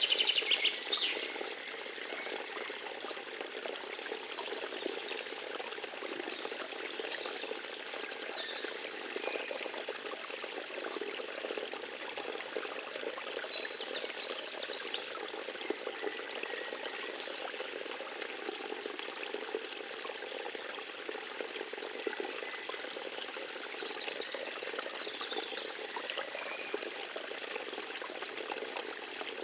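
Forest stream trickling and running steadily, with a few short high chirps laid over it; the loudest chirps fall in the first second.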